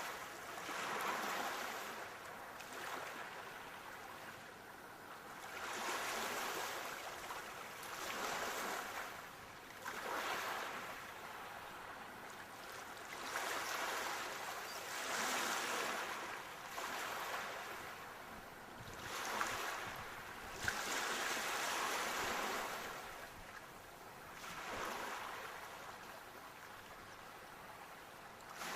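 Sea waves breaking and washing up on the shore, swelling and falling back every two to three seconds.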